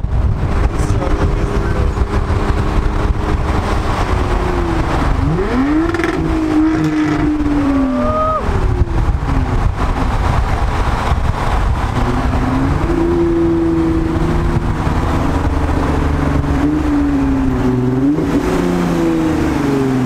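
Car engine pulling on the freeway, its pitch climbing and dropping through gear changes, twice, over a steady rush of road and wind noise through an open car window.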